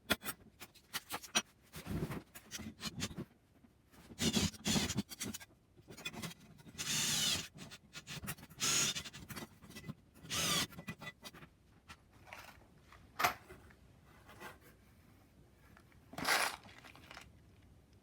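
Irregular scraping and rasping strokes, each under a second, from hand work on the materials, with a sharp click about thirteen seconds in.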